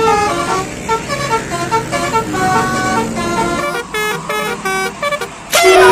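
Telolet basuri musical bus horn playing a quick tune: a rapid run of short horn notes jumping up and down in pitch.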